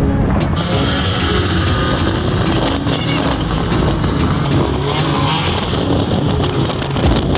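Snowmobile engine running while riding.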